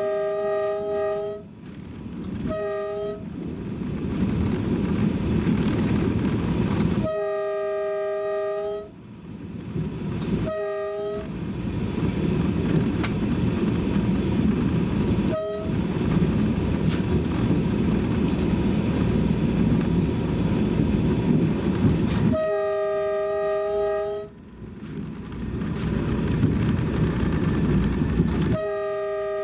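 A train's multi-note horn sounds again and again, in long blasts of a second or two and short toots, over the steady rumble of the moving train.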